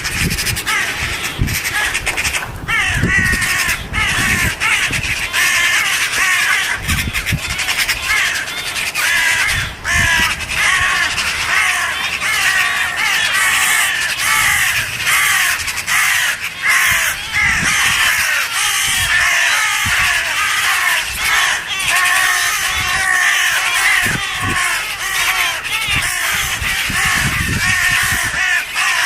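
A flock of jackdaws giving harsh alarm calls, many overlapping without a break, as they mob a hawk that has caught one of them. Occasional low bumps sound underneath.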